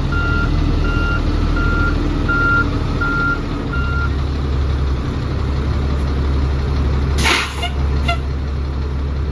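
Freightliner dump truck's Cat diesel running, its reversing beeper sounding about every 0.7 seconds until it stops about four seconds in. A little after seven seconds a sharp hiss of released air, then a shorter puff about a second later.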